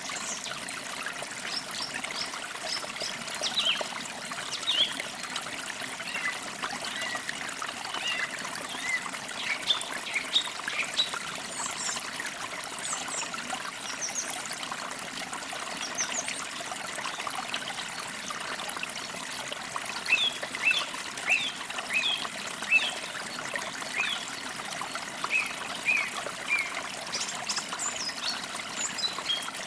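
A small stream trickling steadily, with songbirds chirping over it in short quick notes that come in bursts, busiest about two-thirds of the way through.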